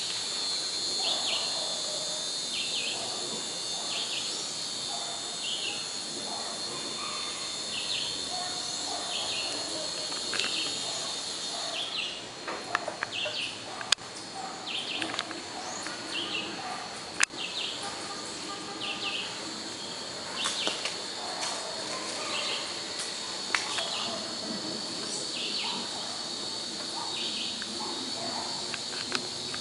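Insects and birds in the outdoors. A steady high insect buzz runs under a short high chirp that repeats about once a second, with scattered bird calls. Two sharp clicks stand out about halfway through.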